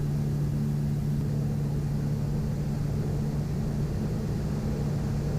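Steady drone of a Piper Navajo Panther's twin piston engines and propellers in cruise, heard inside the cockpit as an even low hum with no change in pitch.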